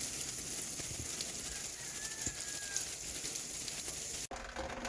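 Ice dropping from ice-coated trees as they thaw after an ice storm: a steady hiss with scattered light ticks of ice pieces landing. It cuts off abruptly near the end.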